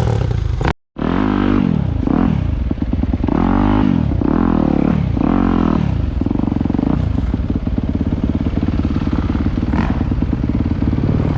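Dirt bike engine revving up and down about five times in quick succession, then running more steadily.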